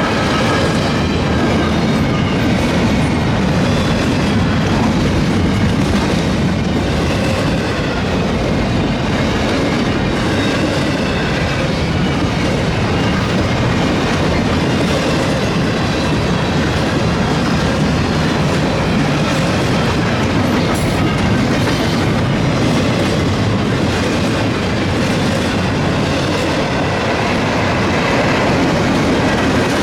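Freight train cars rolling past at speed, the wheels clacking steadily over the rails.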